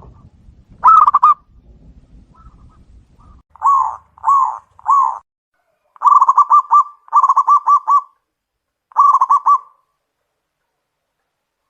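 Zebra dove (perkutut) cooing. A short phrase comes about a second in, then three separate coos, then three quick rolling, trilled phrases.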